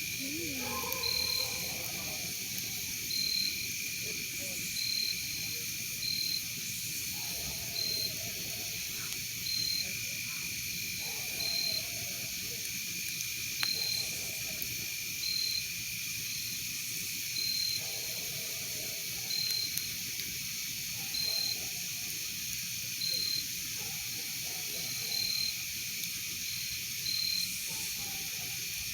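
A night insect chorus: a steady high drone with one insect's short chirp repeating about every second and a half to two seconds.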